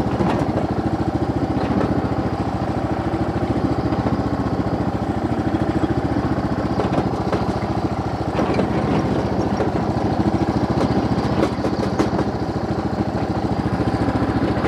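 Kohler Courage engine on a riding lawn mower running steadily at part throttle, held down a little while the mower rolls downhill.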